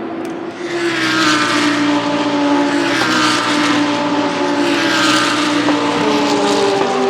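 GT3 race cars passing at speed one after another, their engines at high revs. Their engine notes overlap, get louder about a second in, and fall in pitch as each car goes by.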